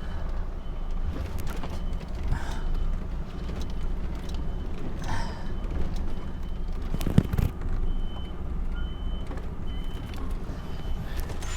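Rigid lorry's diesel engine running low during a tight turning manoeuvre, with its reversing alarm beeping at a steady pace. A single sharp knock about seven seconds in.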